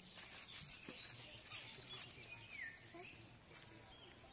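Faint outdoor ambience: small birds chirping in short rising and falling calls, with scattered light clicks and rustles.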